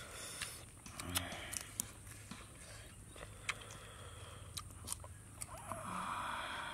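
Close-up chewing and crunching of food, with scattered sharp clicks and a breathy hiss near the end.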